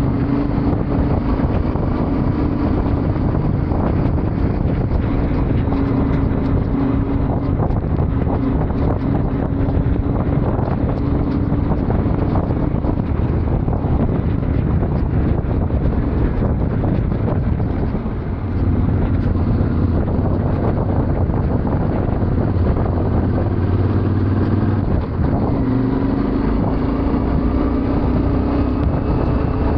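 Yamaha Ténéré 700's parallel-twin engine running under way, its note shifting up and down with the throttle, with wind noise on the microphone. The level dips briefly about eighteen seconds in, and the engine runs at a lower note for several seconds after.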